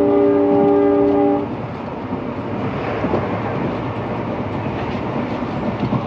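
An EMD WDP4B diesel locomotive's air horn sounds one steady multi-note blast that cuts off about a second and a half in. Then the locomotive and train run on in a steady noisy rumble.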